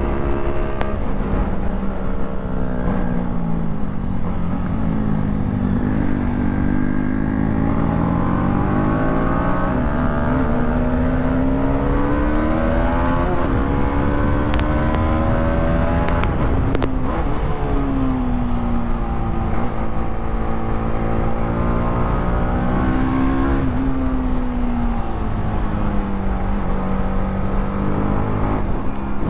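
TVS Apache RR310's single-cylinder engine revving hard under a fast ride, its pitch rising and falling again and again as it accelerates and backs off, over wind rush.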